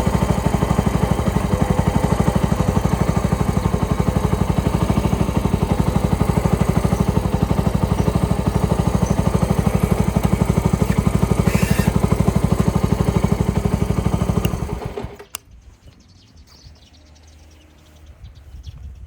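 Suzuki Grasstracker Big Boy's air-cooled single-cylinder four-stroke engine idling with a steady, even beat, then shut off about fifteen seconds in, followed by a single click and quiet background.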